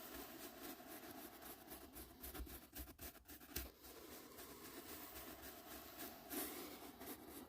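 Soft brush strokes sweeping across the microphone: a faint, continuous scratchy rustle.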